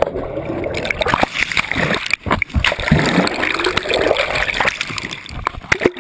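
Water splashing and churning in uneven bursts, as in turbulent river water.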